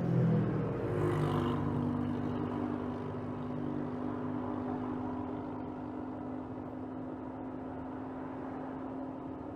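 Mercedes GLS 450's 3.0-litre turbocharged inline-six with EQ Boost mild hybrid running while driving in town, heard from under the hood. Its pitch drops and shifts in the first second or so as it eases off, then it runs steadily at a low, even note.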